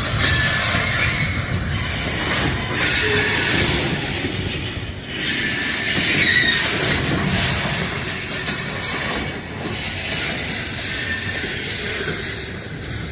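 Railcars rolling slowly on the track during switching: a steady rumble of wheels on rail with a few brief, high wheel squeals.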